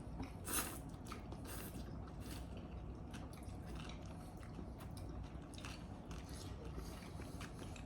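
Faint chewing of ramen, with scattered small wet clicks from the mouth.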